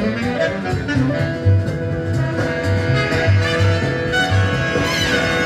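Big-band jazz with a brass section playing over a walking low bass line.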